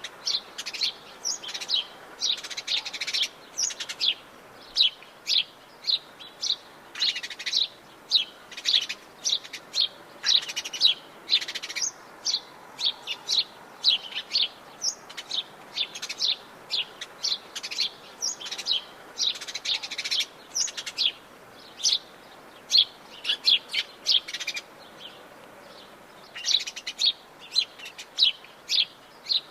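Birds chirping and singing, many short high calls in quick succession with a brief lull near the end, over a faint steady background hiss.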